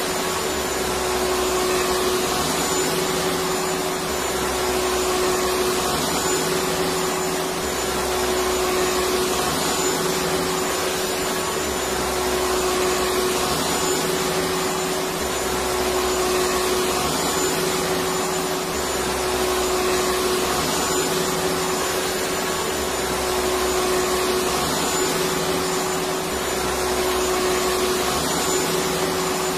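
Electric vacuum cleaner running steadily: a continuous rushing whir with a steady whine in it, and a low rumble that swells and fades every couple of seconds.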